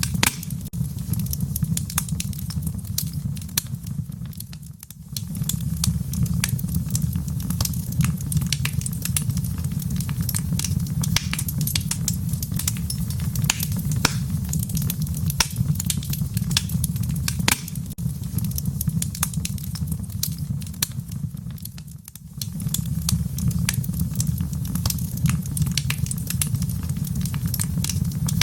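Wood fire in a fireplace crackling, with frequent irregular pops and snaps over a low steady rumble. The rumble briefly fades out twice, about five seconds in and again past the twenty-second mark.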